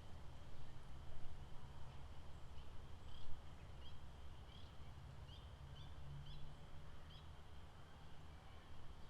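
Lakeside outdoor ambience: a steady low rumble and a faint steady high drone, with a run of about eight short, high, rising chirps, roughly two a second, in the middle of the stretch.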